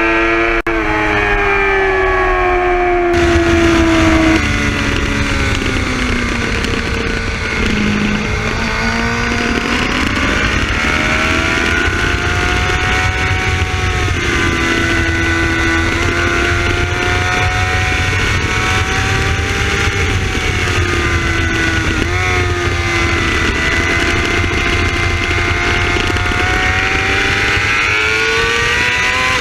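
2011 Yamaha R6's inline-four engine at high revs on track, its pitch rising and falling as the rider works the throttle and gears through corners, over loud wind rush. The wind noise comes in abruptly about three seconds in.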